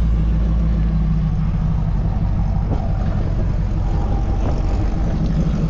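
Willys Wagon's engine running at low revs as the wagon is driven slowly up steel trailer ramps.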